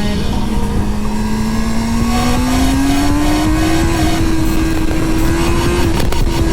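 Motorcycle engine running under way, its pitch rising slowly as it pulls up through the revs, then easing off slightly near the end, with heavy wind rush on the helmet microphone.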